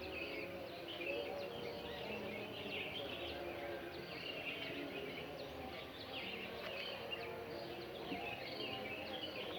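Dawn chorus: many birds chirping and twittering at once, a dense, unbroken layer of quick high chirps.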